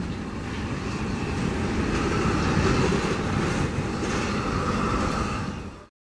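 Jet airliner engines: a steady, loud rushing noise with a whine on top, swelling slightly partway through and cutting off abruptly just before the end.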